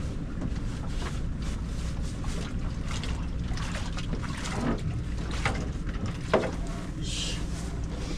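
Fishing boat's engine running with a steady low drone, with scattered knocks and clatter on deck. A short hiss comes about seven seconds in.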